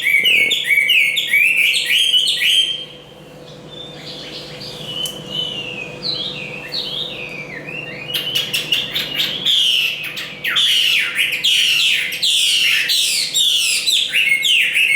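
Chinese hwamei singing a loud, fast run of rapid sliding and repeated notes. The song softens to quieter, sparser phrases about three seconds in, then comes back at full strength about eight seconds in.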